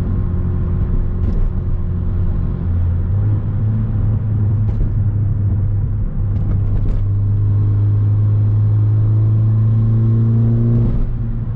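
2017 Hyundai Veloster Turbo's 1.6-litre turbocharged four-cylinder engine droning under way with road noise, heard from inside the cabin. It steps up in pitch about three seconds in, climbs steadily over the last few seconds as the car accelerates, then drops off near the end.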